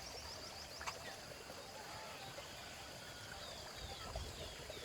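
Birds chirping: quick high chirps and short flat whistled notes, over a steady rush of running water. A single sharp click comes about a second in.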